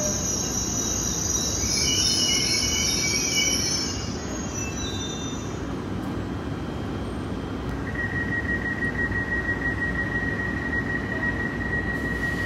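Double-deck RER commuter train coming to a stop at an underground platform: high wheel and brake squeal over a low rumble fades out in the first few seconds, leaving the hum of the standing train. About eight seconds in, a steady high-pitched tone starts as the doors are released and opened.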